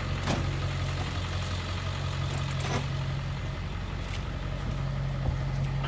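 Car engine idling steadily, with a couple of light clicks.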